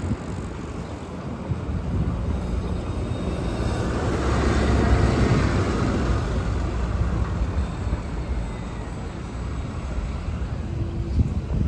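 Road traffic: a vehicle passes by, its tyre and engine noise swelling to loudest about five seconds in and then fading, over a steady low rumble of traffic.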